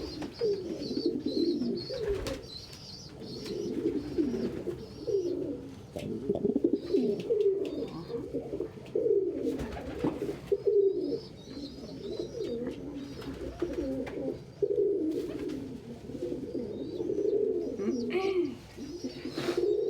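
Several domestic pigeons cooing almost continuously, with fainter high chirps and a few short knocks or wing-flaps.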